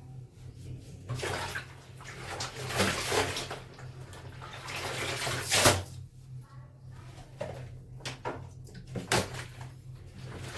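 Clothes being washed by hand in water: irregular sloshing and splashing swishes, with one sharp slap about halfway through.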